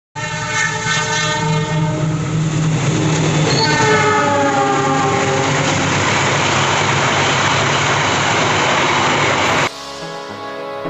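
Train passing with two horn blasts, the second gliding down in pitch as the train goes by, over the steady rumble of the train. It cuts off suddenly near the end and music begins.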